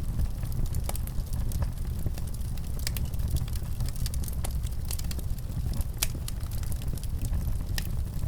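Wood fire in a fireplace crackling, with irregular sharp pops over a steady low rumble. A few pops stand out louder than the rest, about 1, 3, 6 and 8 seconds in.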